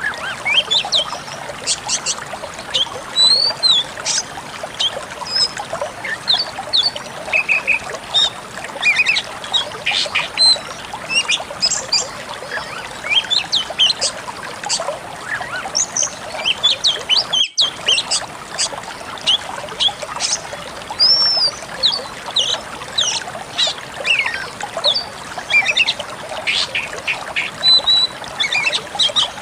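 Pied bushchat song: a busy run of short sharp chirps and whistled notes over a steady trickle of running water, with a brief dropout a little past halfway.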